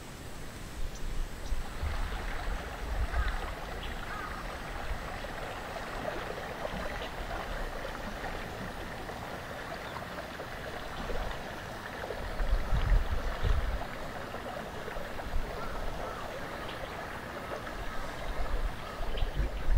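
Water gurgling and trickling steadily, with occasional low rumbles of wind on the microphone.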